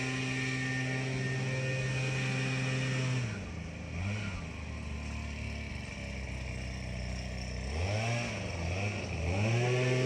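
Tractor engine running steadily, then throttled down to a low idle about three seconds in; near the end it is revved up and down a few times and brought back up to its earlier running speed.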